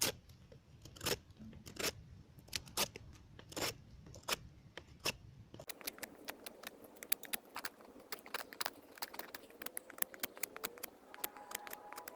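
Victorinox Ranger Wood 55 folding knife shaving bark and wood off a small log, a string of sharp scraping strokes. The strokes come quicker and lighter after about six seconds.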